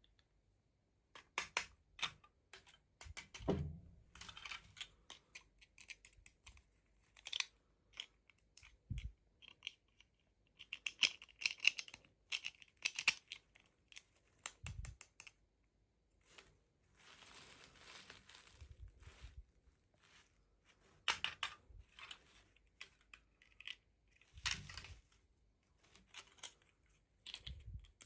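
Toy packaging being handled and opened by hand: irregular crinkling, rustling and tearing of plastic and cardboard, mixed with sharp clicks and small taps. A longer stretch of rustling comes about two-thirds of the way through.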